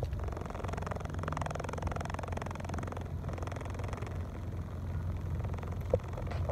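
A car's engine running at idle, a steady low hum heard from inside the cabin.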